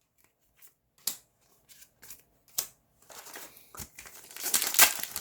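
Yu-Gi-Oh! booster packs and cards being handled: a few sharp isolated clicks, then from about halfway a denser crinkling rustle of foil pack wrappers, loudest near the end.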